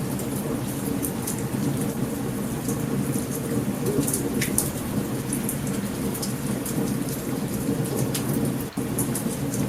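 Steady heavy rain with continuous low rumbling thunder, and frequent sharp crackling pops from a campfire.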